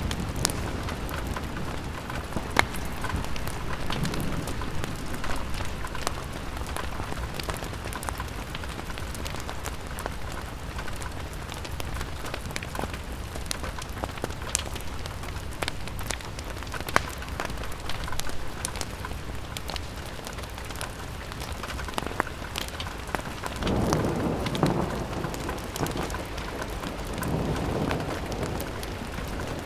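Steady rain on a window, with many sharp drip ticks and fireplace crackles scattered through it. A low rumble swells up about 24 seconds in and again a few seconds later.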